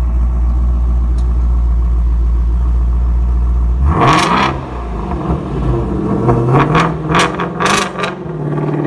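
Ford Shelby GT350's 5.2-litre flat-plane-crank V8, through an X-pipe exhaust, idling with a deep steady rumble, then revved once about four seconds in and blipped three or four times in quick succession near the end.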